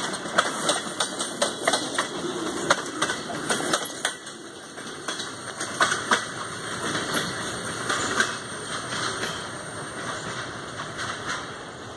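Freight tank cars rolling past, their steel wheels clacking quickly and unevenly over rail joints. About four seconds in the clacking thins out as the end of the train goes by, leaving a few last clacks and a fading rumble and hiss.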